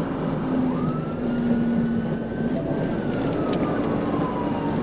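Police car siren in a slow wail: one rise in pitch, a hold, then a slow fall, over steady road and engine noise.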